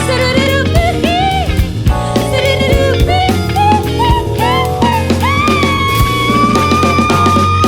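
A live band playing an instrumental passage, with drums and bass under a lead melody line that bends between notes, then holds one long high note from about five seconds in.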